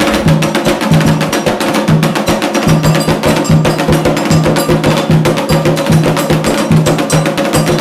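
Candomblé ceremonial percussion playing a fast, steady rhythm of dense, crisp strokes, with a deeper drum stroke recurring a little more than once a second.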